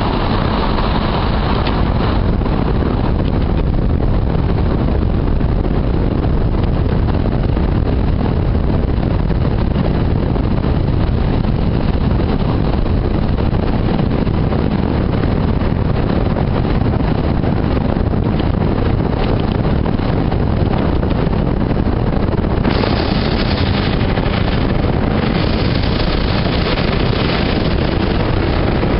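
Motorboat engine running steadily under a low, loud rumble, with wind buffeting the microphone. About three quarters of the way through, a louder hiss of wind or spray comes in and stays.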